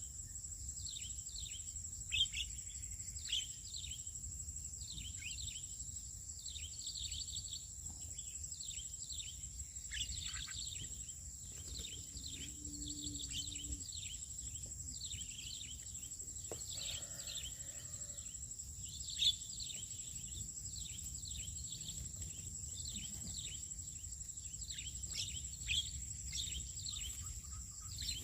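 Birds chirping continuously, many short downward-sweeping chirps several times a second, over a steady high-pitched whine and a low outdoor rumble.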